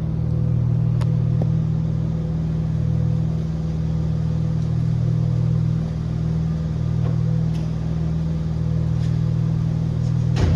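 Audi Allroad 2.7T twin-turbo V6, tuned with aftermarket downpipes on the factory exhaust, idling steadily with a low rumble. A few faint clicks are heard, and a sharper knock comes just before the end.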